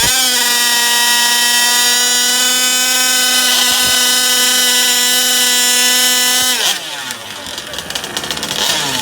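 Gas-powered large-scale RC car's two-stroke engine held at a steady high rev for about six and a half seconds. It then drops off sharply as the throttle is released and settles into an uneven, lower idle.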